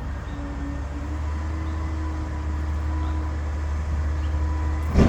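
Garbage truck's engine running steadily with a faint whine, growing slightly louder, then a single sharp bang near the end.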